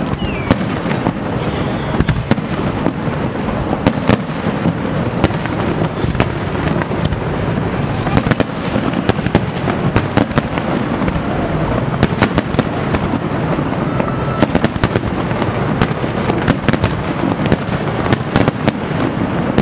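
Aerial fireworks display: shells bursting in a rapid, irregular stream of sharp bangs and crackles over a steady din.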